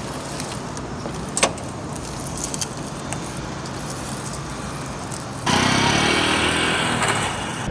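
Honda Super Cub's small single-cylinder four-stroke engine running steadily, with a sharp click about a second and a half in; about five and a half seconds in it turns suddenly louder, as if pulling away under throttle.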